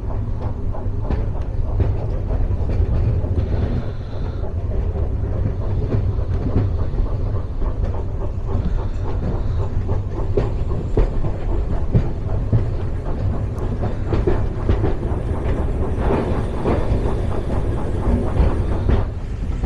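A moving train running on the rails: a steady deep rumble with frequent clicks and knocks from the running gear.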